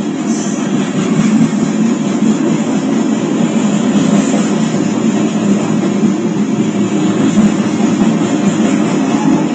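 Freight grain train rolling past: a steady, loud rumble that holds even throughout.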